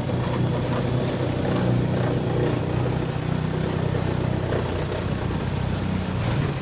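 Reciprocating saw (Sawzall) running steadily as it cuts through the motorhome roof around the air-conditioning unit, stopping abruptly at the very end.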